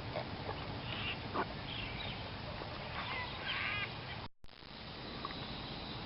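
Wild birds chirping and calling in short bursts, several times, over steady outdoor background noise; the sound drops out for a moment about four seconds in.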